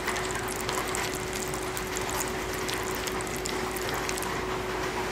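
Steady patter of rain: a constant hiss thick with small irregular ticks, with a steady hum underneath.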